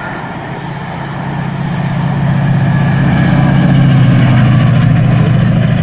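Diesel train engine running close by with a steady low hum, growing louder about two seconds in and staying loud.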